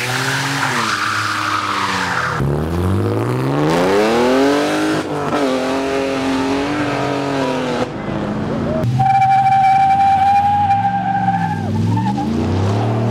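Performance car engines revving hard, the pitch climbing and dropping as the cars accelerate and shift, with tires squealing as they break loose and slide. A long, steady tire squeal runs for about three seconds past the middle.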